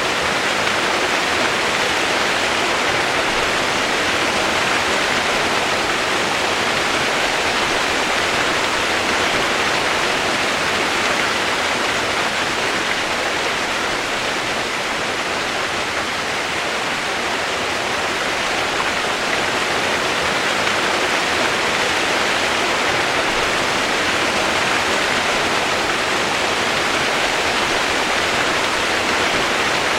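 Steady rain, a dense even hiss with no separate drops, thunder or changes.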